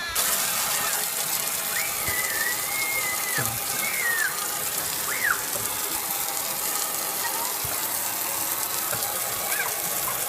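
Water gushing in a steady, hissing spray, like a running shower or hose. A few brief high squeals rise and fall over it.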